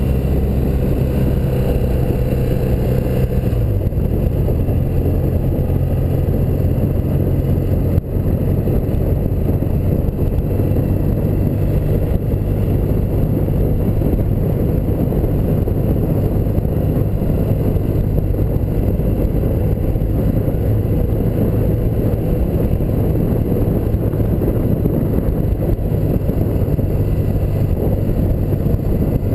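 1984 BMW R100RS air-cooled flat-twin (boxer) engine running under way. Its note drops about three and a half seconds in, then holds steady.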